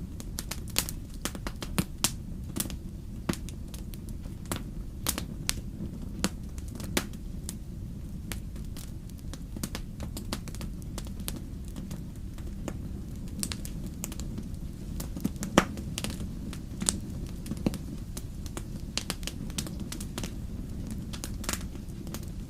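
Wood fire crackling in a fireplace, with irregular sharp pops and snaps over a steady low rumble of the flames. A few pops stand out louder than the rest.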